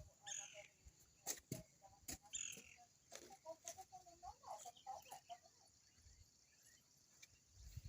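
Faint clucking of chickens, with two short high calls and a few light clicks.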